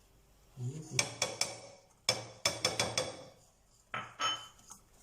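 A utensil clinking and scraping against a mixing bowl while cake batter is stirred, in three short runs of quick ringing clinks with pauses between them.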